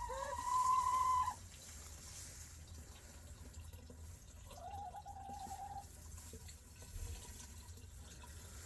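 Hens giving two drawn-out calls, one at the start and a quieter one about halfway, over a faint trickle of water being poured slowly from a milk jug into a heated chicken waterer.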